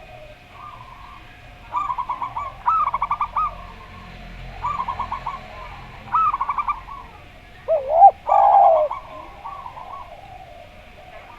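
Zebra doves (perkutut) cooing: repeated bursts of rapid staccato notes, each burst about a second long. About eight seconds in comes a louder, lower, rounder coo, which fits a spotted dove (derkuku).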